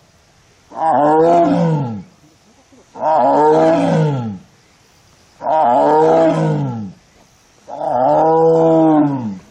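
Amur tiger in heat calling: four long, loud calls about two seconds apart, each rising and then falling in pitch. This repeated calling is the tiger's oestrus call.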